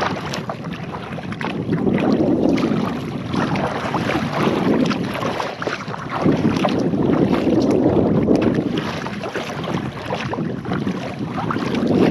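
Water sloshing and splashing against a kayak's hull, with wind buffeting the microphone, swelling and easing every few seconds.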